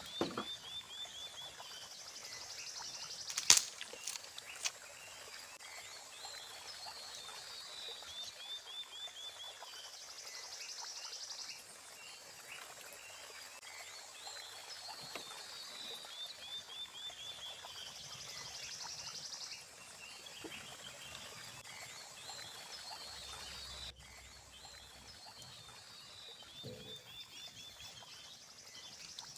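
Calling animals in the dark around a stream: a quick run of about eight descending clicking notes repeats every eight seconds or so over a steady high hiss of insects. A single sharp knock sounds about three and a half seconds in.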